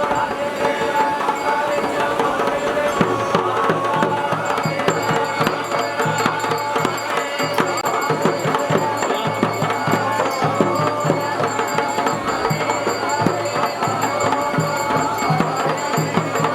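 Dhol and damau drums playing a steady traditional rhythm, the low drumbeats getting heavier about three seconds in.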